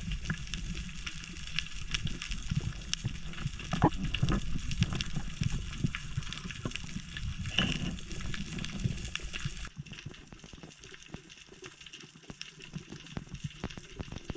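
Sea water sloshing around the camera, with a dense crackle of small clicks; about ten seconds in the low wash cuts off suddenly, leaving fainter crackling.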